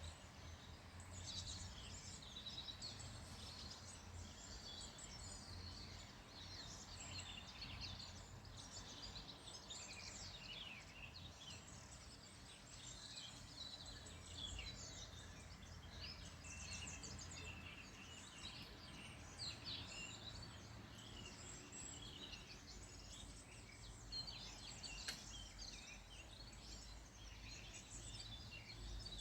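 Faint chorus of several small birds chirping and singing without pause, over a low steady rumble, with one sharp click about 25 seconds in.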